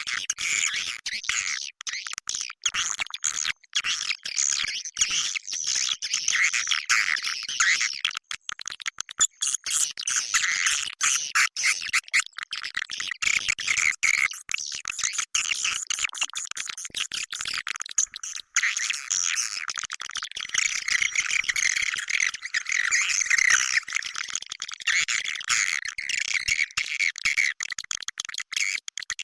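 Swiftlet call-sound recording: a dense, unbroken chorus of high-pitched twittering and chirping swiftlet calls, the kind of lure track played in swiftlet houses to draw birds in to nest.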